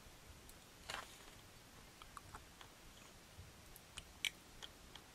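Faint, scattered small clicks and taps from handling tiny plastic model-kit parts and tools, the clearest a little past four seconds in.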